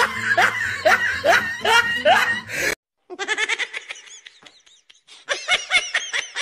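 Laughter in two stretches: a run of laughter over a steady low background that cuts off suddenly a little under three seconds in, then after a short silence a fresh run of quick, rapid laughs that grows livelier near the end.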